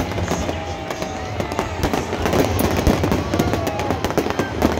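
A fireworks show: many sharp, irregular bangs and crackles of aerial fireworks, with music playing underneath.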